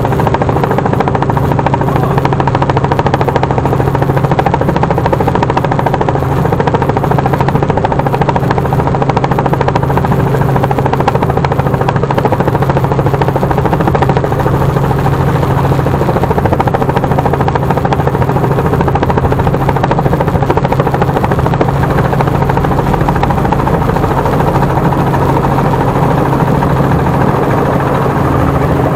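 Helicopter running steadily in flight, a loud, even drone of rotor and engine.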